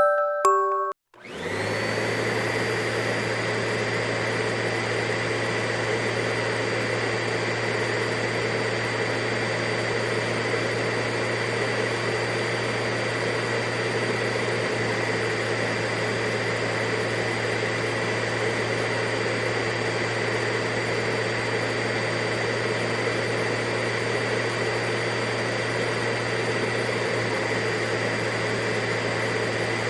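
Vacuum cleaner running steadily: a constant motor hum with a higher whine over rushing air. It starts about a second in, just after a few chiming music notes end.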